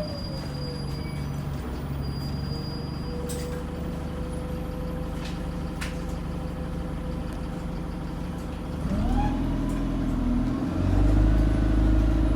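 Bus engine slowing to idle with a thin steady squeal over it. About nine seconds in, the engine picks up as the bus pulls away, and the squeal rises in pitch along with the engine. The squeal is an abnormal noise that makes the bus sound awful.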